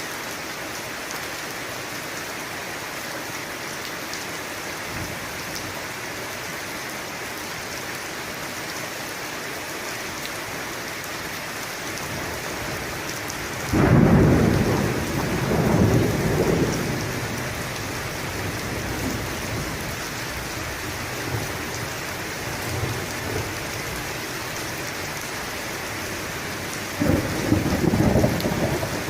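Steady rain falling with a constant hiss, and thunder: a sudden loud crack and rumble about halfway through that rolls on and fades over a few seconds, then another rumble near the end.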